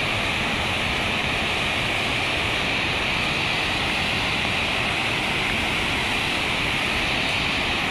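Berkri waterfall: the steady, even rush of falling water, unchanging in loudness.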